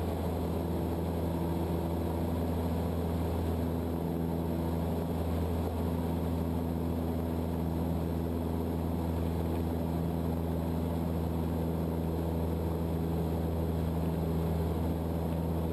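Cessna 152's four-cylinder Lycoming O-235 engine and propeller droning steadily from inside the cockpit, with an even low hum that holds constant pitch: power held on the climb-out of a go-around.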